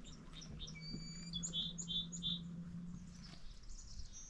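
Small songbirds chirping: a short held whistled note, then a quick run of four chirps, with more chirps near the end. Under them a low steady hum stops about three-quarters of the way through.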